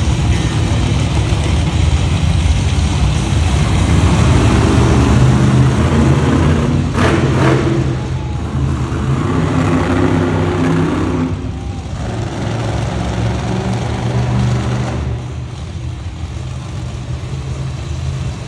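Monster truck engine running and revving loudly across the arena, with a short sharp bang about seven seconds in; the engine eases off in the second half.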